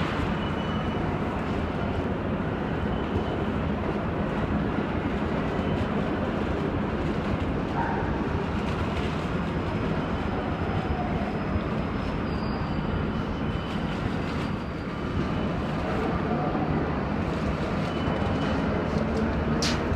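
Rubber-tyred Paris Métro Line 14 train noise: a steady, continuous rumble with a few faint whines over it.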